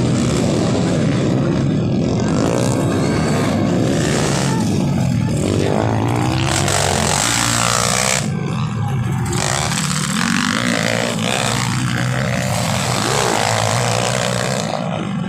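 Underbone motorcycle engines running and revving, several overlapping and rising and falling in pitch.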